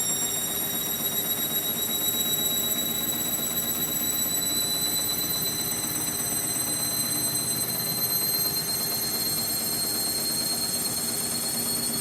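Indesit MTWC71252WUK washing machine in its spin, the motor giving a high whine that climbs slowly and steadily as the drum speeds up, over a low hum from the drum.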